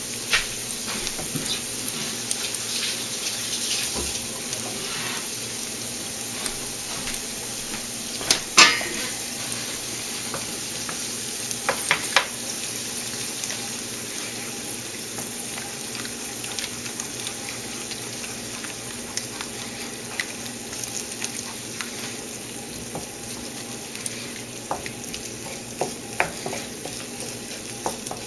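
Eggs frying with diced green pepper and onion in olive oil, sizzling steadily while a spatula stirs them, with sharp clicks and scrapes of the spatula against the pan, the loudest about eight seconds in.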